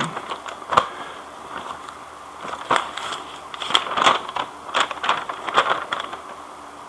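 Small hardware and packaging being handled: scattered light clicks and rustles as nuts, bolts and washers are sorted, in small clusters with pauses between.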